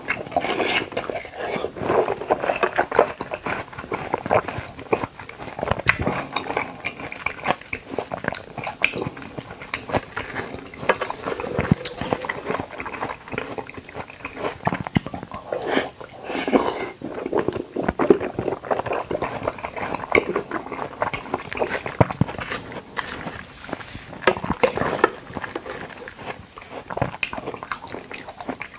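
Close-miked eating of watermelon chunks and konjac jelly: wet biting, chewing and slurping, with spoon and fork now and then clinking against the bowl.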